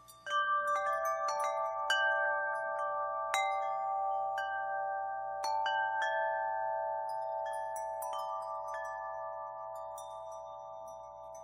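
Wind chimes ringing: a cluster of strikes just after the start, then single strikes at irregular moments. Their long tones overlap and slowly fade toward the end.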